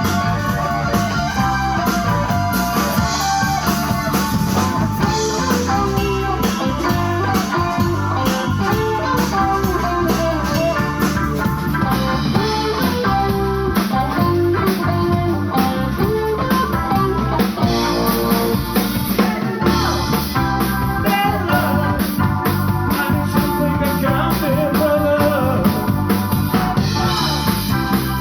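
A live band playing an instrumental passage at a steady loud level, with guitar lines over bass and a drum kit keeping a regular beat.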